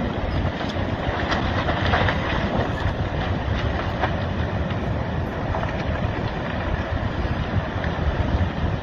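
Massive landslide sliding into the sea: a continuous rushing noise with scattered crackles.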